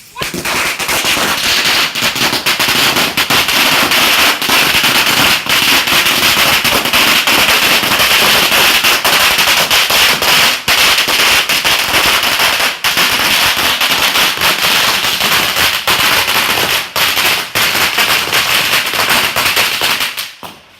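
A long string of firecrackers going off in a rapid, unbroken crackle of loud bangs, stopping abruptly shortly before the end.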